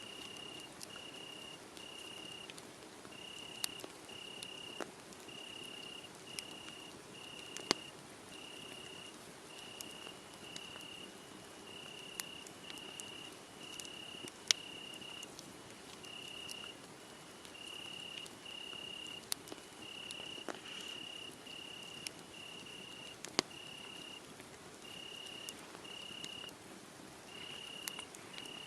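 Crickets chirping in an unbroken run of short, high, even chirps, with the scattered sharp crackles and pops of a burning wood fire, a few of them loud.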